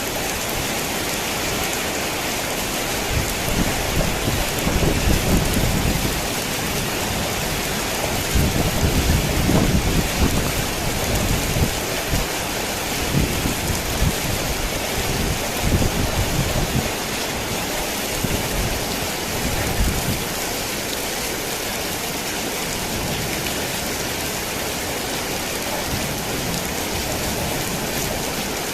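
Heavy rain falling steadily on a tin roof, with a long, uneven roll of thunder rumbling from a few seconds in until about two-thirds of the way through.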